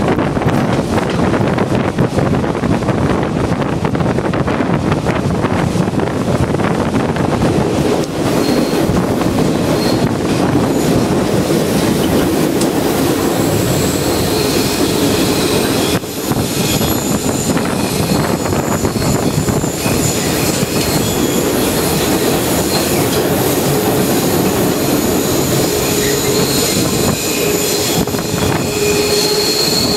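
Diesel locomotive and train running downgrade: a loud, steady mix of engine, rolling wheels and wind. From about a quarter of the way in, thin high wheel squeal comes and goes, the flanges grinding against the rail on the mountain curves.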